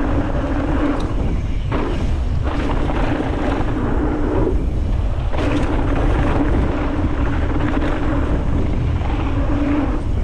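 Mountain bike descending a dirt jump line at speed: wind rushing over the action-camera microphone and tyres rumbling on dirt, with a steady hum that breaks off a few times and a few brief knocks of the bike over the jumps.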